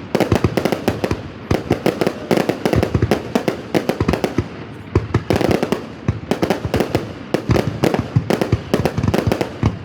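Fireworks going off in a rapid, continuous barrage: many sharp bangs and cracks a second with no real pause.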